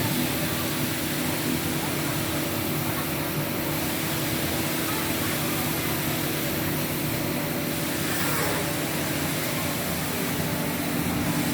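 Five-axis CNC woodworking router running: a steady machine noise with a low hum, and a faint falling whine about eight seconds in.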